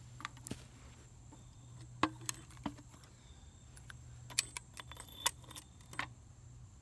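A scatter of light, sharp clicks and rattles, irregularly spaced, over a steady low hum.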